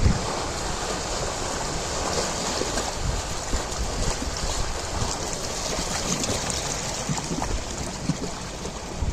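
Ocean waves breaking and washing on a shore: a continuous rushing hiss of surf with low rumbles underneath.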